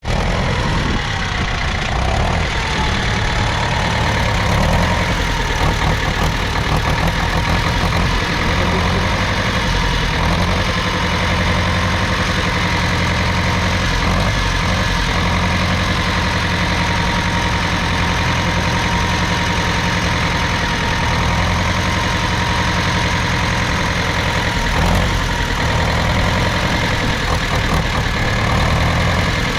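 1969 Same Leone 70's 3.4-litre four-cylinder diesel engine running steadily.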